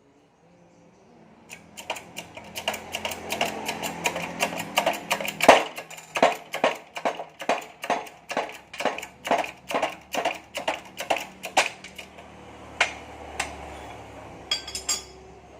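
Sharp metallic clicks from hand-tool work on a motorcycle engine, repeating at a steady two to three a second for about ten seconds, then a few scattered clicks near the end.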